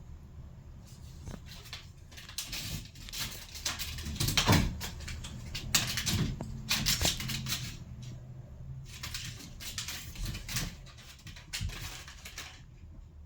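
A cat playing with a toy on the floor: irregular pattering, scuffling and clicking of paws and toy, busiest through the middle and thinning out near the end.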